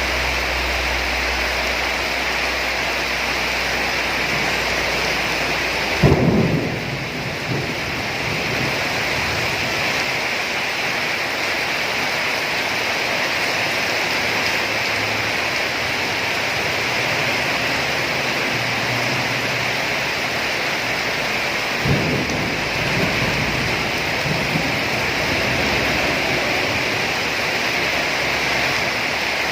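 Steady rain falling during a thunderstorm, with two thunderclaps, one about six seconds in and one near twenty-two seconds in, each cracking suddenly and rumbling for a couple of seconds.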